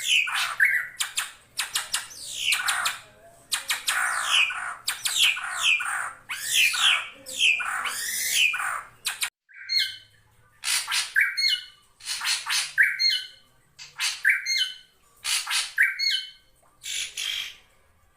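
Drongo calling: a run of harsh, scratchy calls with falling notes. About nine seconds in, this gives way to a short two-note call repeated roughly once a second, a lower note followed by a higher one.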